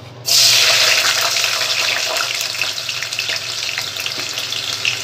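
Paneer cubes dropped into hot oil: a sudden loud sizzle of deep frying starting about a quarter second in, loudest at first and then settling into a steady sizzle with many small pops.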